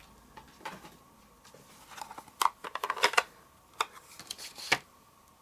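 A run of light clicks and taps, thickest from about two seconds in and ending with a sharper tap near the end: a photopolymer stamp being tapped on an ink pad and pressed onto card.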